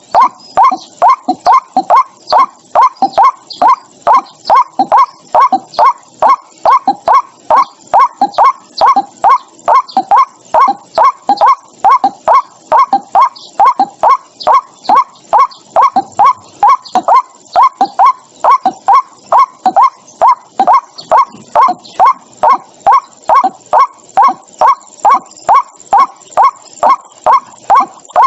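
White-breasted waterhen calling: a loud, monotonous series of short, hoarse 'kwak' notes repeated about twice a second without a break, the kind of call played from a trap speaker to lure the birds.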